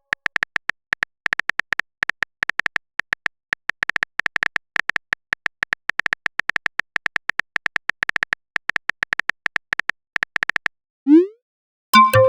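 Smartphone keyboard typing sound effect: a fast, uneven run of short clicks, each a brief high tone. About eleven seconds in a quick rising swoosh sounds, then a bright message chime begins near the end.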